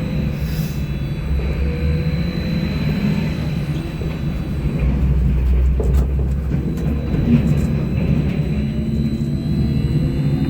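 Sinara-6254.00 trolleybus under way: steady road and running-gear rumble with the hum of the electric drive, a thin steady high whine, and a few faint rising whines as it picks up speed.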